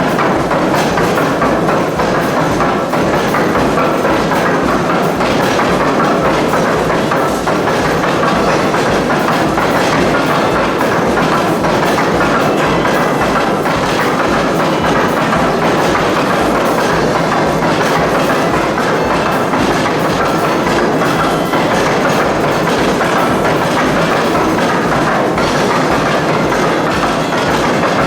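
Steam-driven machinery running, a loud continuous mechanical clatter over a fast, even pounding rhythm.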